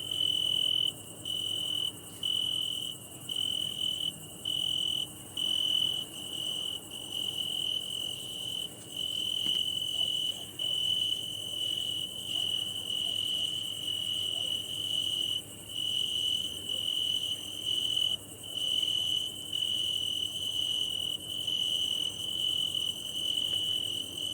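Cricket singing, made by rubbing its wing covers together: a steady high-pitched trill broken by short pauses about once a second, with some longer unbroken stretches.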